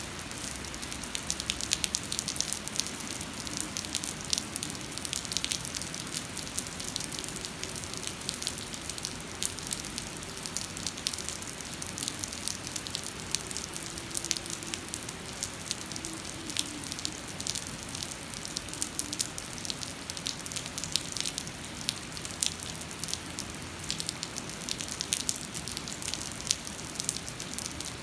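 Heavy rain pouring onto wet pavement and standing water: a dense, steady hiss with many sharp individual drop impacts.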